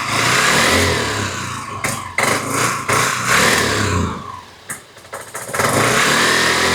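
1983 Yamaha Riva 180 scooter's single-cylinder four-stroke engine being revved repeatedly, its pitch rising and falling. Past the middle the sound drops away for about a second before picking up again. Under heavy throttle the engine starves for fuel, which the owner believes is a petcock problem rather than a carburetor problem.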